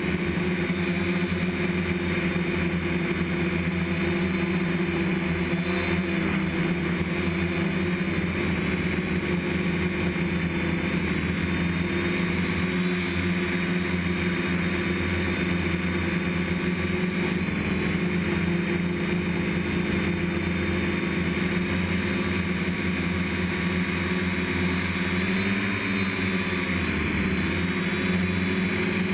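DJI F550 hexacopter's six electric motors and propellers running steadily in flight: a constant multi-tone buzz with a thin high whine above it. The pitch dips and rises briefly near the end as the throttle changes.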